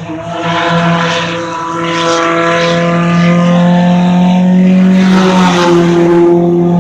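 Compact class race car's engine running hard at a steady, high pitch through a qualifying lap. The note holds nearly level and swells louder near the end.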